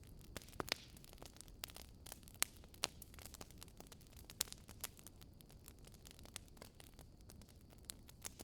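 Wood fire crackling in a modern wood-burning fireplace: irregular sharp pops and snaps over a soft hiss, a few louder pops in the first half.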